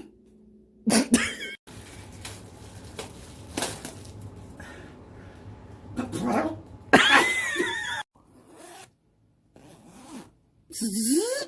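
A person's voice making imitation noises: several short squealing, gliding vocal sounds with abrupt stops between them, the loudest about seven seconds in.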